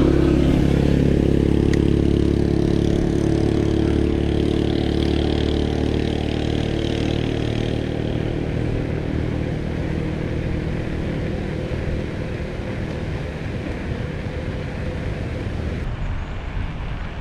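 Motor vehicle engine running with a steady hum that fades away gradually over about ten seconds, over the rush of wind and road noise.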